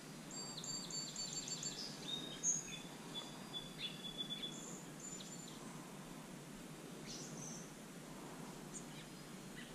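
Songbirds calling: a quick run of high chirps in the first two seconds, then scattered calls until about halfway and a few faint ones later, over steady outdoor background noise.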